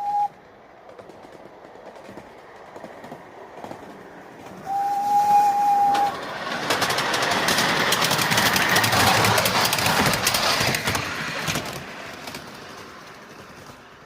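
5-inch-gauge live-steam locomotive sounding its whistle, a short blast at the start and a longer single steady blast about five seconds in. It then runs past with rapid chuffing and rail clatter that swells and fades away.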